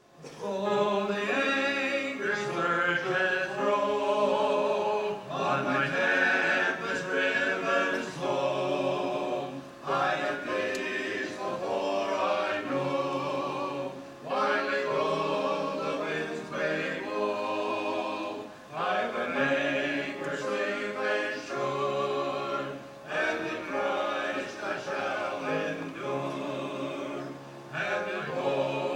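A choir singing a gospel song in harmony, in phrases of a few seconds each with short breaths between them.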